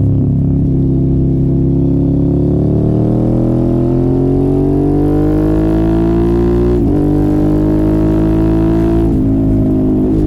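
Motorcycle engine with an aftermarket exhaust pulling under acceleration: the pitch holds, then climbs steadily, breaks sharply at a gear change about seven seconds in, and breaks briefly again near the end.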